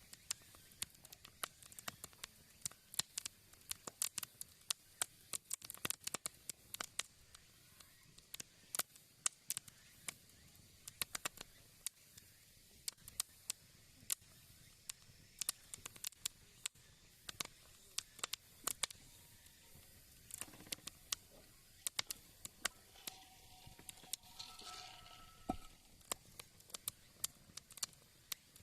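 Wood fire crackling in a fire pit, with irregular sharp pops and snaps.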